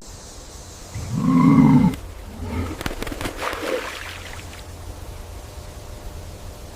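An animal's loud, deep call lasting about a second, starting about a second in, followed by a few fainter, shorter calls.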